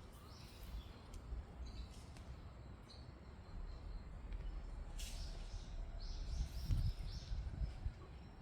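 Small birds chirping in short, high calls, scattered at first and busier from about five seconds in, over a steady low rumble.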